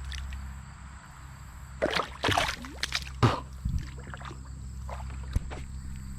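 Water splashing and sloshing in irregular bursts from about two seconds in, with a few sharp knocks, over a steady low hum.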